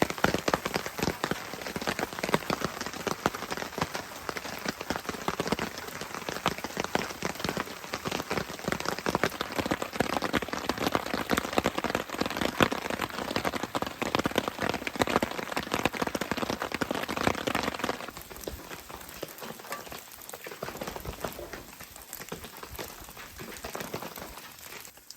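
Heavy rain drumming on a tarp rainfly overhead, a dense patter of drop strikes. It turns noticeably quieter and thinner about three quarters of the way through.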